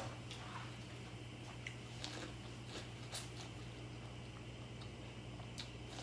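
Faint bites and chewing of boiled sweet corn on the cob, a scatter of soft clicks and crunches, over a steady low hum.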